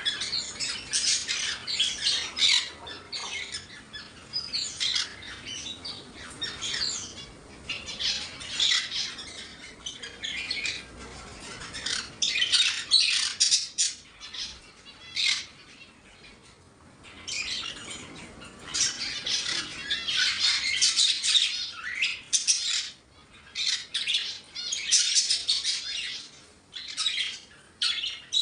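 Many pet parrots squawking and chirping at once in a continuous chorus of harsh, overlapping calls, with a few brief lulls.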